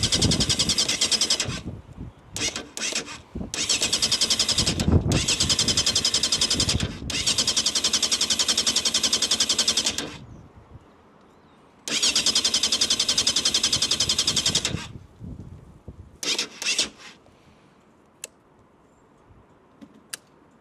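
Motorcycle electric starter cranking the engine in a series of bursts, the longest about three seconds, with a longer pause before a final long crank and two short blips near the end. The engine does not catch, which the owner fears is because the fuel pump is not running.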